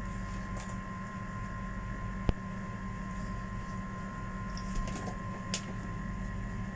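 Steady mechanical hum with one sharp click about two seconds in and a few faint light ticks later on.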